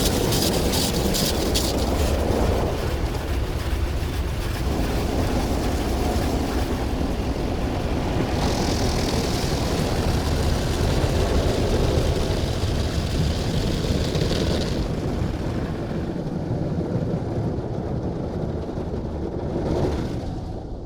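Tammermatic T700 Lux car wash running over the car, heard from inside the cabin: a steady loud rush of water and machinery. There is a rapid regular slapping for the first couple of seconds, and a higher hissing spray from about eight to fifteen seconds in.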